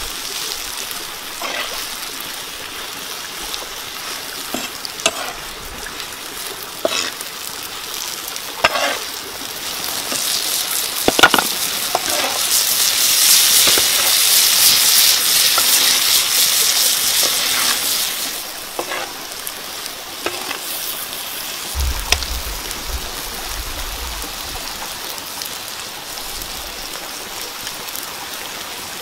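Chilli and tomato sauce sizzling in a frying pan, a steady hiss that swells louder for several seconds in the middle, with a few sharp clicks of stirring scattered through the first half.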